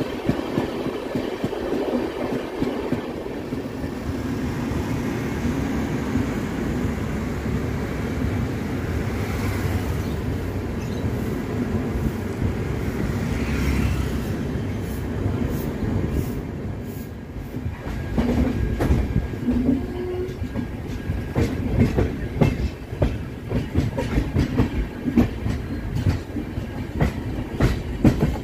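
Passenger train running, heard from an open coach doorway: a steady rumble of wheels on rail, then from about halfway many sharp wheel clacks over track joints, louder and more uneven toward the end.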